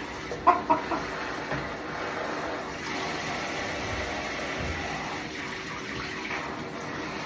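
Silkie chickens clucking two or three times about half a second in, over a steady hiss of running water from the bath tap.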